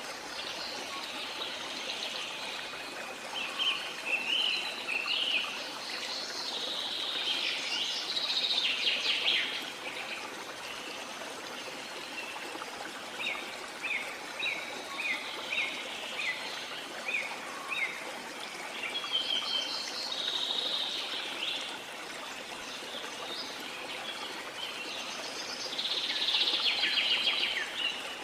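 Steady rush of a waterfall under birdsong: several bursts of chirping and warbling, and a run of about ten short repeated chirps midway.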